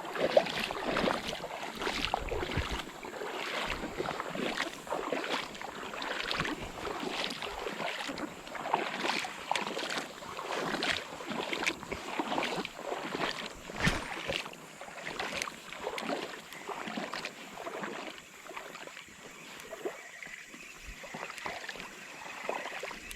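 Creek water splashing and sloshing in many irregular strokes, over a steady wash of moving water.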